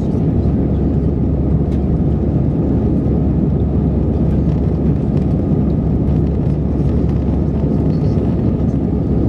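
Steady cabin noise of an Airbus A319-111 in flight: a constant low roar of the CFM56 engines and airflow, heard from a window seat in the passenger cabin.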